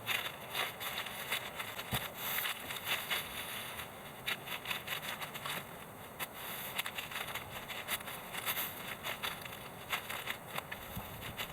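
Dry cut grass and plant debris crunching and crackling as it is handled, a run of many quick, irregular crackles.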